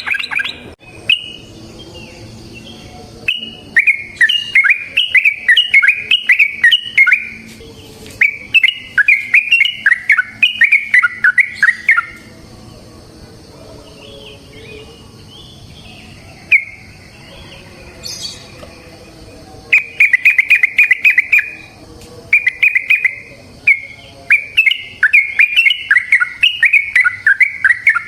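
Yellow-vented bulbul (trucukan) singing its long, rapid, bubbling song in several runs of quick notes, with short pauses between them and a longer lull around the middle.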